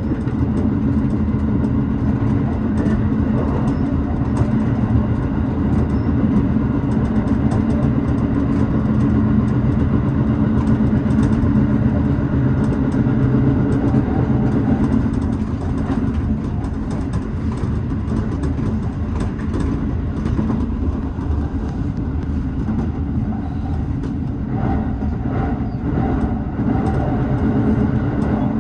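Tobu 6050 series electric train running along the line, heard from inside the front car: a steady rumble of motors and wheels on the rails with scattered clicks.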